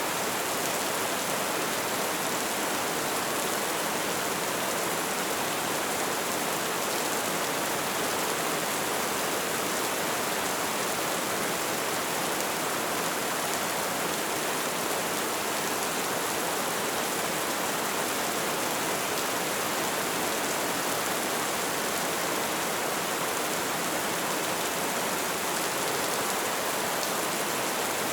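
Light rain falling steadily, an even hiss of drops with no distinct single drips standing out.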